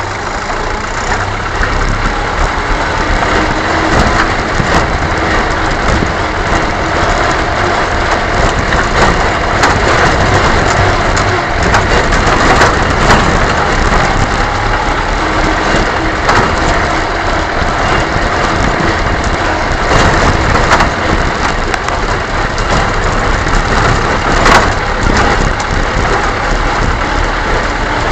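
A motor vehicle's engine running as it drives over a rough dirt track, with steady crunching and frequent rattles and knocks from the ground and the vehicle.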